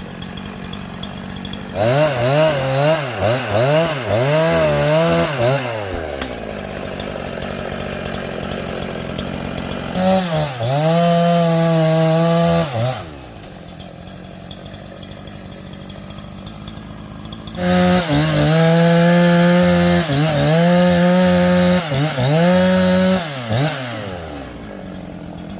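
Two-stroke chainsaw engine revved in several bursts, its pitch wavering up and down under the throttle, held at high revs twice and dropping back to a lower idle in between and near the end.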